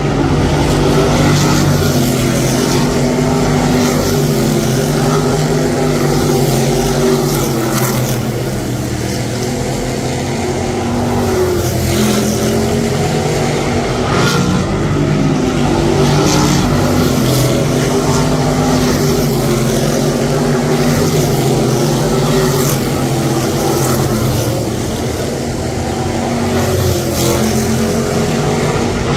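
An engine running steadily, its pitch drifting slightly up and down with small changes in speed.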